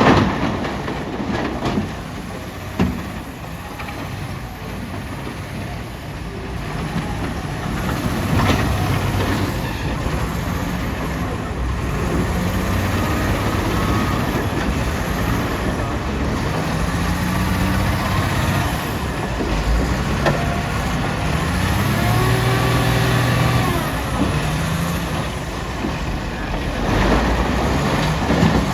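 Heavy diesel machinery at work, a wheel loader loading rock, with the engine revving up and down under load. A few loud knocks come in the first nine seconds.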